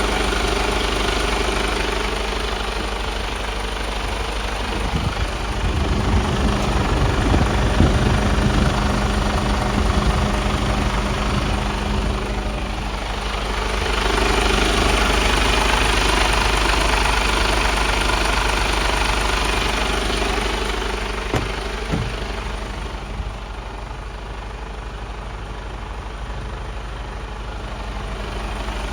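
Mercedes-Benz Actros 1842 truck's diesel engine idling steadily, growing louder and quieter in turn.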